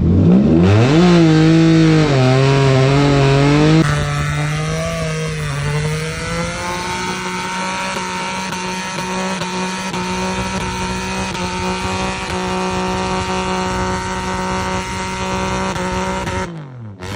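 Audi B8 S4's supercharged 3.0-litre V6 revved hard and held at high revs during a burnout, with tyre squeal from the spinning rear tyres. The revs climb in the first second, waver for a few seconds, then hold steady until the engine is cut off sharply near the end.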